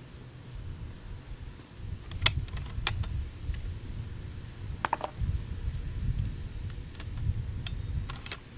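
A few scattered sharp clicks and a short rattle about five seconds in, from gear being handled, over an uneven low rumble of wind on the microphone.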